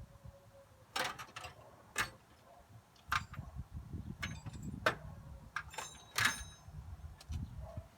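Hand tools being handled: several sharp metal clicks and clinks, the loudest about 1, 2, 5 and 6 seconds in, over low shuffling and knocking.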